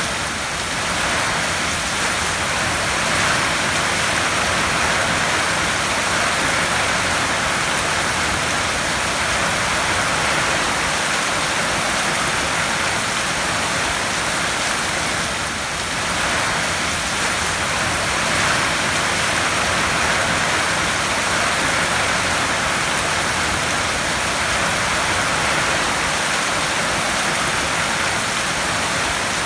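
Heavy rain drumming on a tin roof: a steady, dense hiss with no separate drops or gusts standing out.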